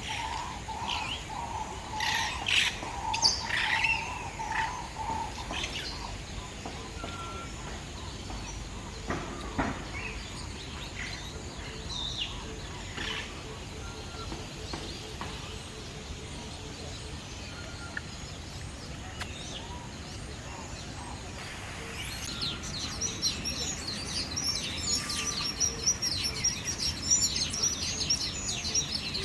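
Many small birds chirping and calling in a walk-through aviary: scattered short calls at first, then a dense chorus of rapid high chattering joins in about three-quarters of the way through.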